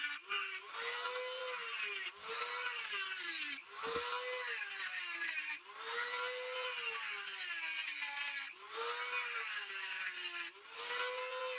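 A power tool's motor working against a workpiece, its pitch sagging each time it is pressed in and rising again when eased off, over and over, with a gritty grinding noise and brief breaks between passes.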